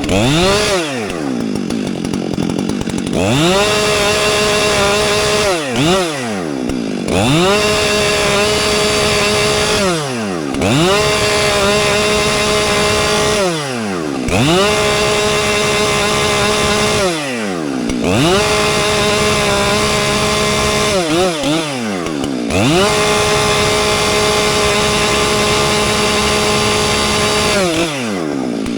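Two-stroke chainsaw bucking a downed tree into rounds. It revs up to full throttle and holds steady through each cut for a few seconds, then drops back briefly, about seven times in a row.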